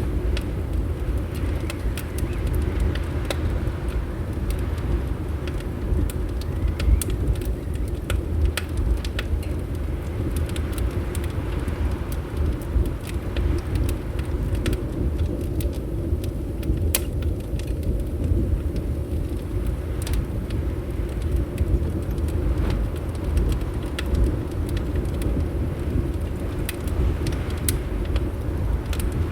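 Fireplace fire crackling, with irregular sharp pops and snaps scattered through, over a steady low rumble of wind.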